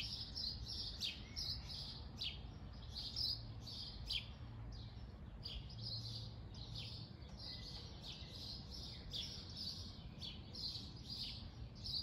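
Small birds chirping, many short high calls following each other a few times a second, over a faint low hum.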